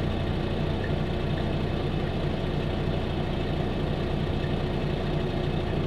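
Semi-truck diesel engine running steadily, an even low drone heard from inside the cab.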